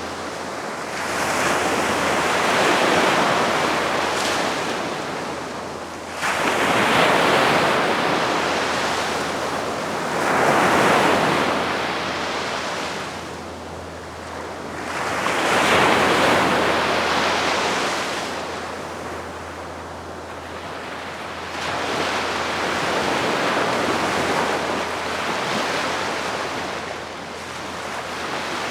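Calm sea waves breaking and washing up the shore. The hiss of the surf swells and fades every four or five seconds, with a longer wash near the end.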